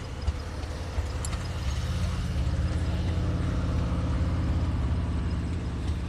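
Old farm tractor engine running with a fast low pulsing, growing louder about a second and a half in and then holding steady.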